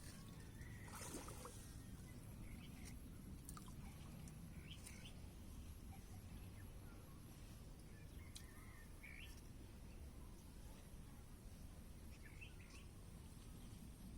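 Near silence: faint outdoor background hum, with a few scattered faint chirps and clicks.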